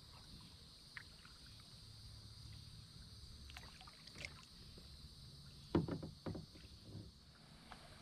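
Kayak paddling on a river: a few scattered knocks and splashes of the paddle against the water and hull. Two louder ones come a little past halfway, over a faint steady background.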